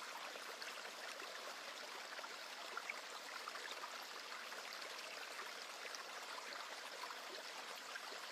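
Faint, steady rushing hiss with no pitch or rhythm, like running water.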